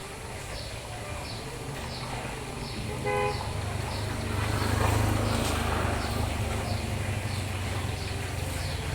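A vehicle horn gives one short toot about three seconds in, then a passing vehicle's engine and road noise swell to a peak near the middle and fade. A high chirp repeats about twice a second underneath throughout.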